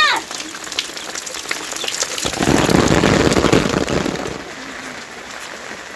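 Steady rain falling, with a louder, fuller rush of noise lasting about two seconds in the middle.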